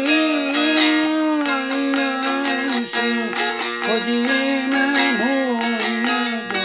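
Instrumental Turkish folk music: a string instrument plucked in quick notes under a held melody line that slides up and down in pitch.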